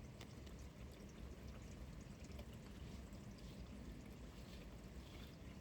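Steady rain, heard as a low, even hiss with faint scattered drip ticks.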